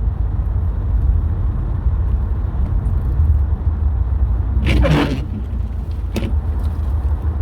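Steady low drone of a Subaru WRX STI driving, engine and road noise as heard inside the car. About five seconds in there is a brief sharp noise, and a short click follows about a second later.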